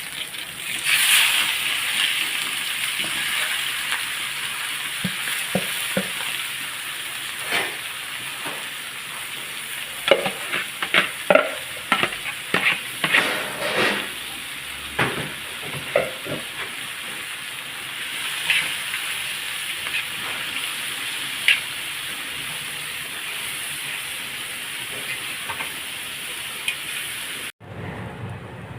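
Food sizzling in hot fat, with a run of clinks and knocks from a utensil against the pan about ten to sixteen seconds in. The sizzle cuts off suddenly near the end.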